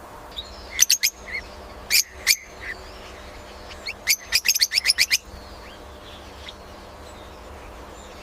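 Birds giving sharp, short chirps: a pair about a second in, another pair around two seconds, then a quick run of about eight chirps near the middle, over a steady low background hum.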